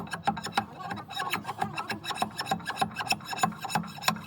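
Rapid, irregular clicks and knocks, several a second.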